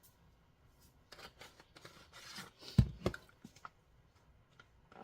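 Kitchen handling noises: light clicks and rustling, with two dull thumps about three seconds in, as a pan and seasoning containers are handled on the counter.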